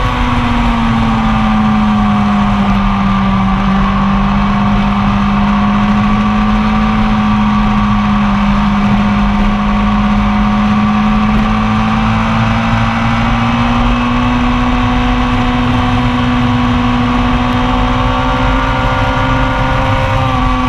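A 1999 Yamaha R1's inline-four engine held at high revs, heard from the bike with wind rush. The pitch dips a little at first, holds steady, then slowly climbs over the last several seconds.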